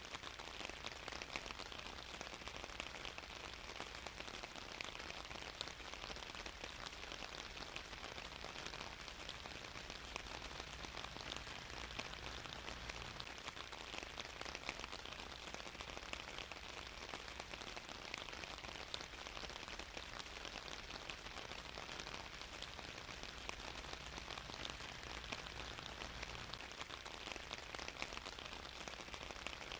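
Steady rain falling on a surface, a continuous patter of fine drops with no thunder.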